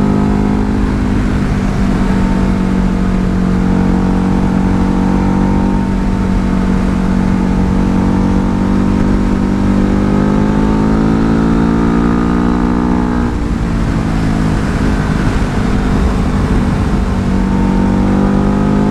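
Ducati Hypermotard's L-twin engine running steadily at road speed under a constant rush of wind noise. Its revs climb slowly for a few seconds, then drop abruptly about two-thirds of the way through and settle again.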